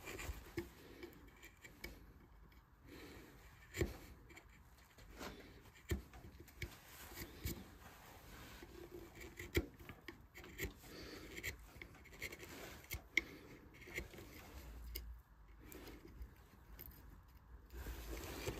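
Hand carving tool cutting and scraping wood in short, irregular strokes and small clicks, relief-carving a flower into a turned wooden vase.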